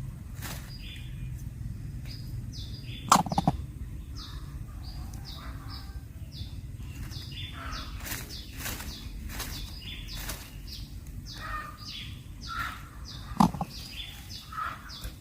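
Small birds chirping in short, high, falling notes, over and over. Two sharp knocks stand out, about three seconds in and near the end.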